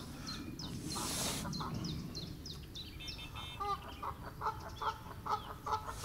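Birds calling: quick high chirping notes in the first half, then, from about the middle, a run of short repeated calls at about three or four a second.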